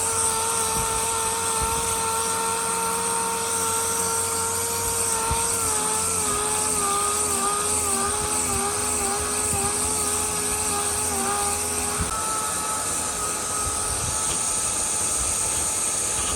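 A power tool's motor running steadily over a wide hiss. About five seconds in, its pitch sags and wavers as if it is being loaded against the work, then recovers near twelve seconds.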